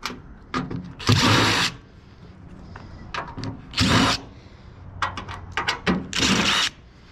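Cordless power drill/driver backing screws out of an old microwave's sheet-metal casing, in three short runs of about half a second each, with a few quick clicks between the second and third.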